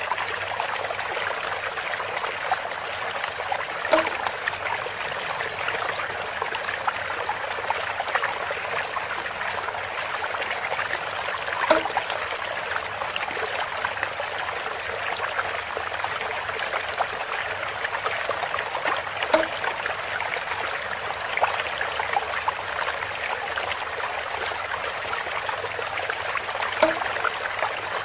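Water trickling and splashing steadily through a bamboo water feature, with a short hollow knock about every seven and a half seconds, four times in all.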